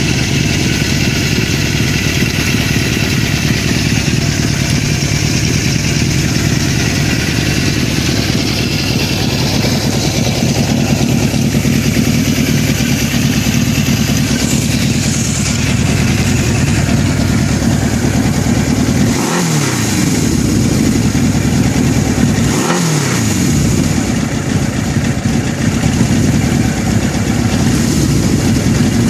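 1981 Suzuki GS750's air-cooled inline-four engine idling steadily, blipped twice in the second half so the revs rise and drop back, and a third blip starting at the very end. It is running just after a full carburettor rebuild, and the owner doesn't think it is quite 100% yet.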